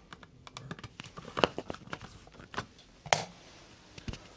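Scattered small clicks and taps of hands working a cabin's temperature control, the loudest knocks about a second and a half and three seconds in.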